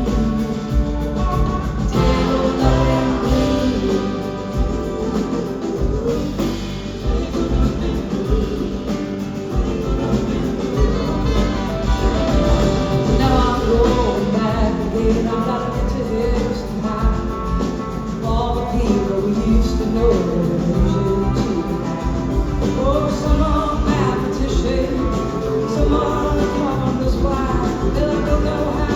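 Live rock band playing a long stretch of the song with no sung lyrics: an instrumental passage over a steady beat.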